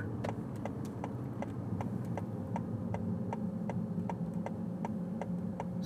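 Car turn signal clicking steadily, about three ticks a second, for a left turn, over the steady low hum of the car cabin.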